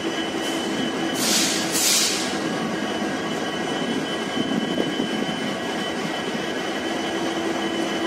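Passenger train running away into the distance: a steady rumble with a faint constant hum, and two short hisses about a second in.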